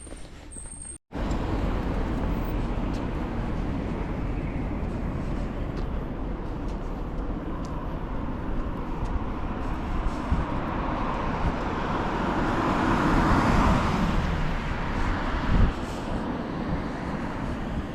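Road traffic: a steady wash of tyre and engine noise with a low rumble, swelling as a vehicle passes close about two-thirds of the way through and then easing. It starts abruptly about a second in.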